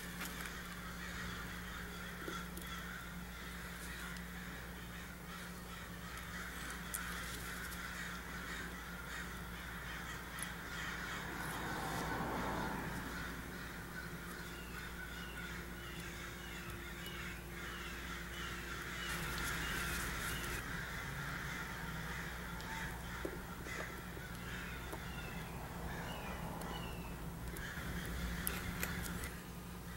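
Birds calling, with a run of short falling chirps repeated about twice a second through the middle stretch, over a steady low hum. A few light clicks come near the end.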